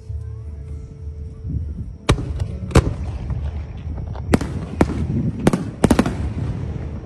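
Fireworks going off: about seven sharp bangs, the first about two seconds in and several bunched together near the end, over a steady low rumble.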